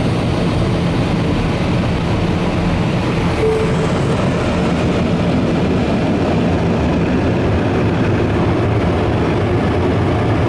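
Superior car wash dryers blowing air over the car in a loud, steady rush, with a low hum underneath.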